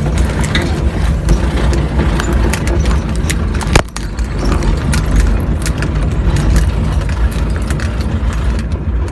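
Pickup truck driving over a rough dirt track: a steady low engine drone with constant rattling and clicking from the bumpy ground, and one hard thump about four seconds in.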